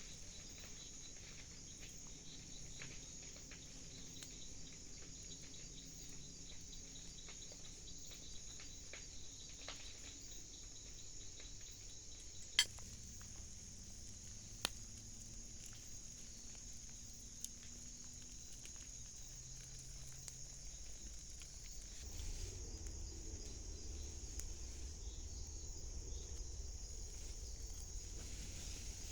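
Night insect chorus of crickets, a steady high-pitched trill, with a few sharp clicks in the middle and a low rumble coming in about two-thirds of the way through.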